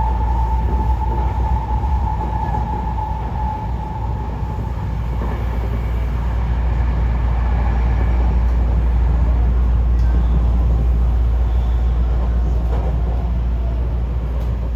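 Train running with a steady low rumble; a high whining tone in the first few seconds fades away.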